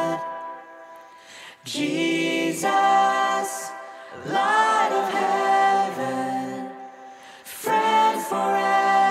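Voices singing a worship song in phrases of one to three seconds, with held and sliding notes and short dips between phrases.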